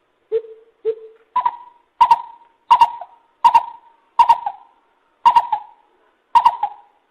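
Lesser coucal calling: a series of hollow hoots, two lower notes followed by seven higher, louder ones spaced under a second apart.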